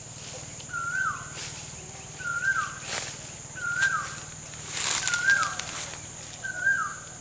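A bird calling over and over, five short notes each sliding down in pitch, spaced about a second and a half apart, over a steady high insect drone. Brush crackles briefly twice.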